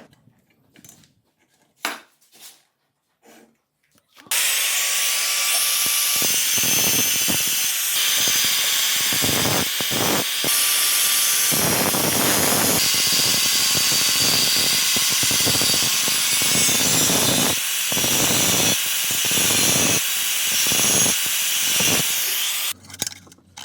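A few light clinks of small metal parts, then an electric power tool abrading metal, rasping continuously with brief dips where it eases off. It starts about four seconds in and stops shortly before the end.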